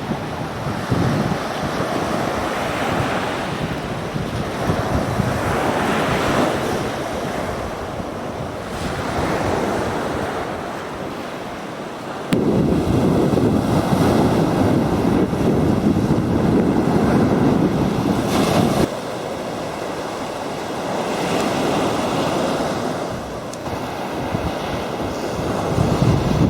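Sea waves washing on the shore, swelling and fading every few seconds, with wind buffeting the microphone. About halfway through, heavier wind rumble comes in abruptly for several seconds and then stops just as suddenly.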